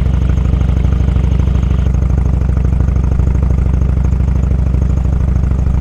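Motorcycle engine running steadily, a low even exhaust pulse with no change in pitch or loudness.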